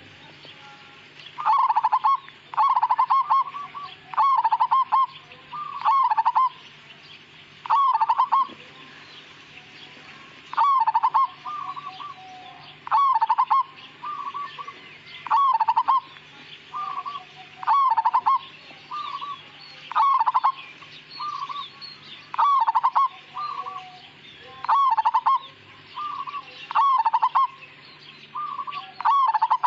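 Zebra dove (perkutut, of the local Majapahit type) cooing: short phrases of quick, rolling notes, repeated every second or two.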